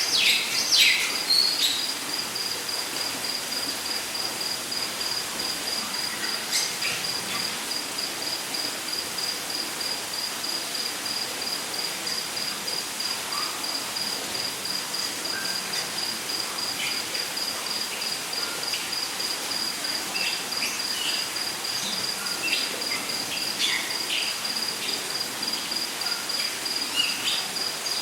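Rainforest ambience: an insect chirps in a fast, even, high-pitched pulse throughout. Scattered bird calls come in over it, briefly loudest in the first two seconds, above a steady hiss.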